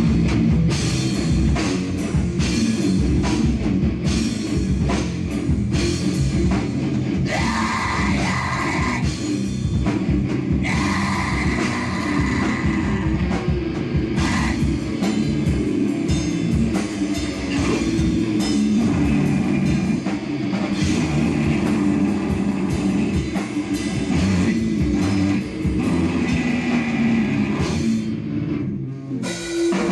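A live band playing loud heavy rock in a metal style, with a drum kit hitting hard over dense guitar; the sound drops off briefly just before the end.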